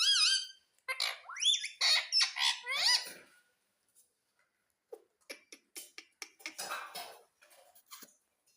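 Pet ring-necked parakeet calling in a quick run of high, squawky, gliding notes for about three seconds. After a short pause come a string of short clicks and scratchy rustles.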